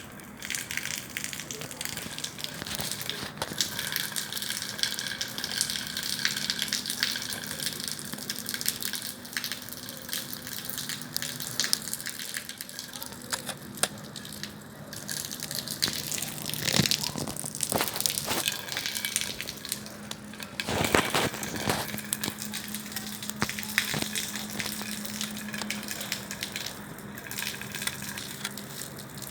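Bonfire burning: a steady rushing of flames with frequent sharp crackles and pops, a few louder pops about halfway through.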